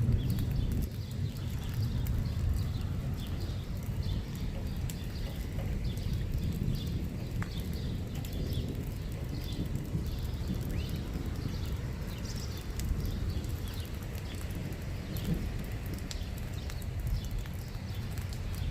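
Outdoor ambience as a thunderstorm's rain tapers off: a steady low rumble with many short, light ticks scattered throughout.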